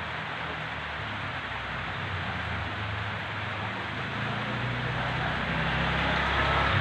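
Steady hiss, with a low vehicle engine hum that grows louder over the second half, as a vehicle comes closer.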